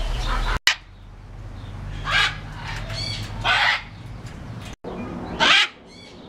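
A bird giving three short, harsh calls about a second and a half apart, with fainter calls in between.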